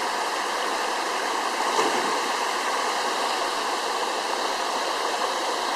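Waterfall: a steady rush of falling water, with one short louder sound about two seconds in.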